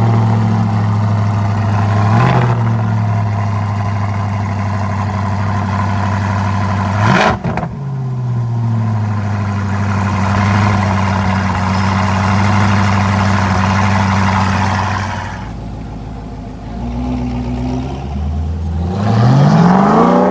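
Cunningham C8 Corvette's 6.2-litre V8, Lingenfelter-tuned, just after a cold start: it runs at a steady fast idle through its quad exhaust, then settles lower and quieter about fifteen seconds in. Near the end the engine note rises in a short rev.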